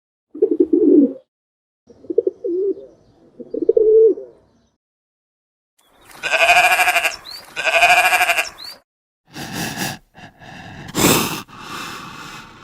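A series of separate animal calls: three short, low calls, then two long bleats about a second apart, then several shorter calls.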